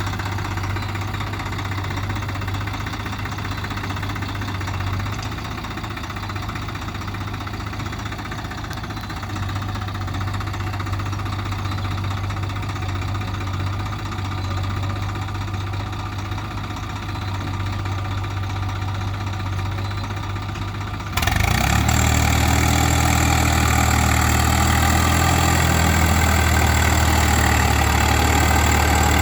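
A tractor's diesel engine running steadily. About two-thirds of the way through the sound abruptly becomes louder and fuller.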